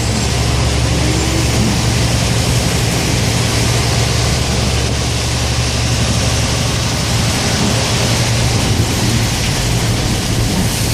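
Steady road noise heard inside a moving car in the rain: tyres hissing on wet pavement over a low, constant hum of engine and drivetrain.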